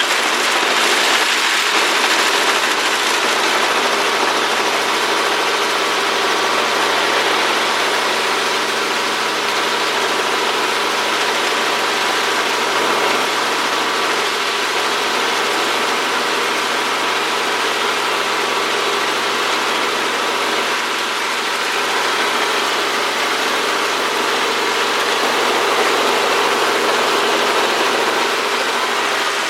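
Helicopter in flight, its engine and rotor running steadily without change.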